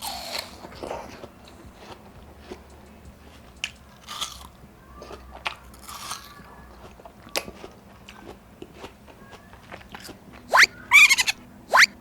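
Close-up biting and chewing of crisp, juicy watermelon, with short crunches and wet mouth sounds scattered through. Near the end come three much louder sharp bites, two of them squeaky.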